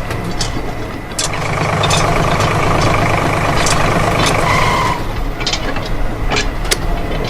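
A small motor running with a steady hum. A whine starts about a second in, rises slightly and cuts off about five seconds in. Scattered sharp clicks and knocks run alongside.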